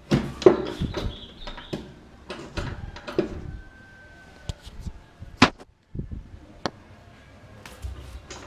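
A run of irregular knocks and clicks, with one sharp click about five and a half seconds in and another about a second later.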